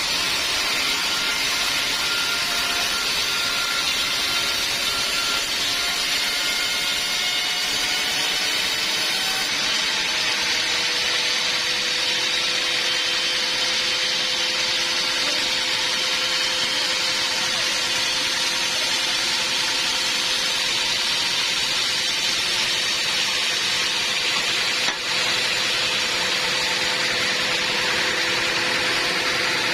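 Sawmill band saw running through wood: a steady sawing noise with faint steady tones that shift in pitch partway through, and a brief dip near the end.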